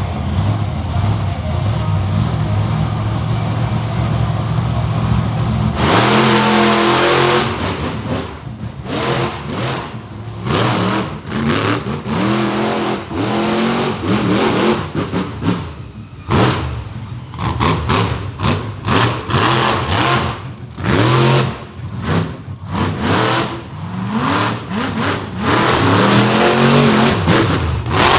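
Monster truck engine running steadily. From about six seconds in it is revved hard again and again, its pitch rising and falling with each burst of throttle.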